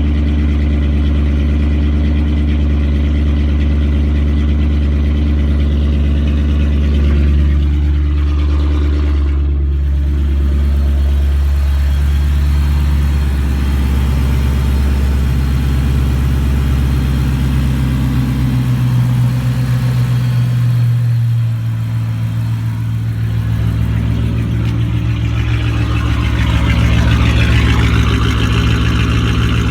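5.7 L Hemi V8 running with no exhaust and no catalytic converters, a loud open-header idle. Its pitch shifts partway through, and it gets a little louder near the end.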